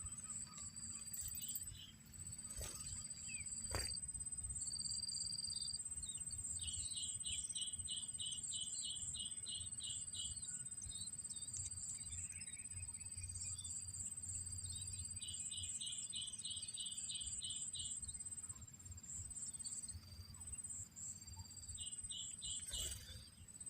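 Steady high-pitched insect chorus, with rapid runs of evenly spaced chirps about 7 and 15 seconds in and a shorter run near the end, over a low rumble.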